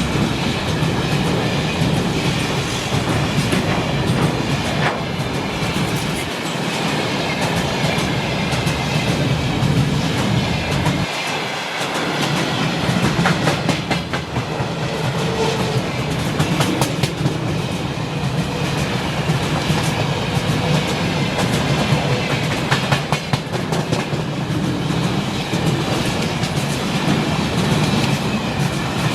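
Long freight train rolling past at speed, its wagon wheels clattering over the rail joints in a steady stream of clicks.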